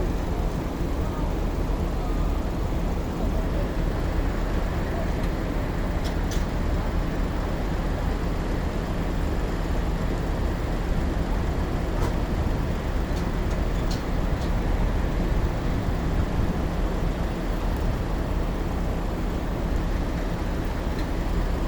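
Large diesel vehicle engine running at a steady idle, a low continuous rumble with street traffic noise and a few faint clicks.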